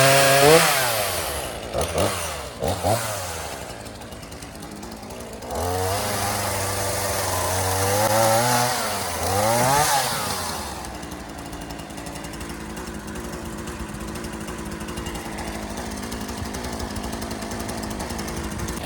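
Gas chainsaw revved up and down several times, with short blips and a longer high-revving spell, then settling to a steady lower idle.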